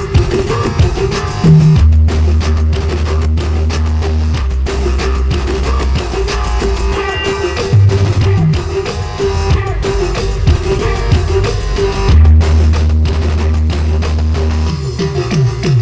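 Loud music blaring from big carnival sound-system rigs, with a drum beat and heavy bass notes held for several seconds at a time, twice.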